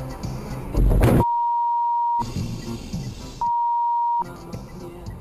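Two censor bleeps, each a single steady beep of about a second with the rest of the sound cut out, masking what was said. The first comes right after a short loud burst of noise about a second in.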